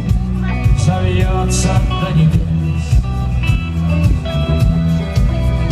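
Live rock band playing, with regular drum and cymbal hits over bass and guitar.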